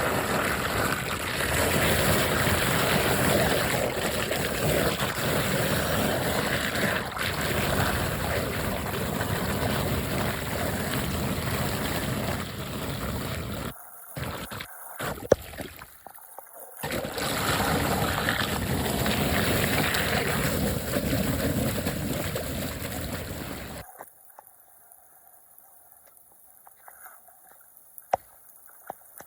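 Floodwater rushing and gurgling as it drains away through a cleared street drain, a steady rush. It breaks off a few times about 14 seconds in, resumes, and stops about 24 seconds in, leaving near silence.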